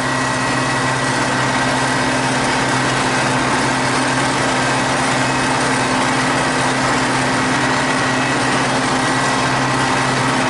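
Т-150К tractor's diesel engine running steadily under way, a constant even drone with no change in pitch.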